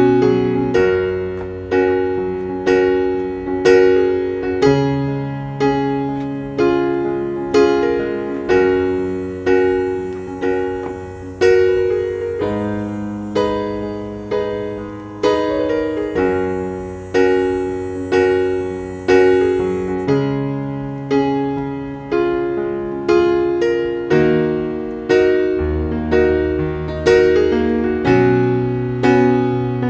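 Background music: solo piano playing a slow, even melody of chords, about one or two notes a second.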